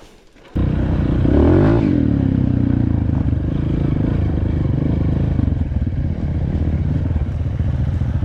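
Dirt bike engine running loud. It starts abruptly about half a second in, revs up briefly, then holds a steady pace.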